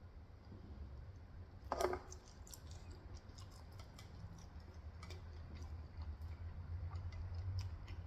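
Quiet eating sounds: chewing with many faint, short mouth clicks, and one louder bite or crunch just under two seconds in.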